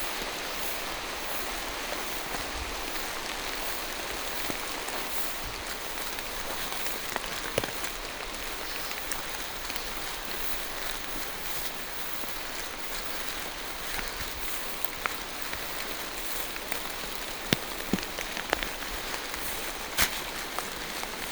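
Steady rain falling through forest trees, an even hiss with a few sharp close taps standing out, the loudest in the last few seconds.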